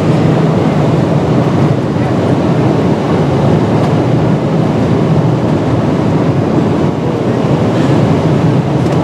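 Steady, deep roar of a Boeing 777-300ER's cabin in cruise flight: the constant drone of the engines and rushing air heard from inside the plane.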